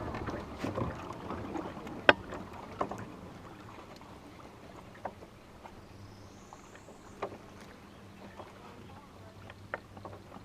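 Scattered knocks and clicks of handling aboard a small fishing boat, with one sharp knock about two seconds in, over a faint steady low hum.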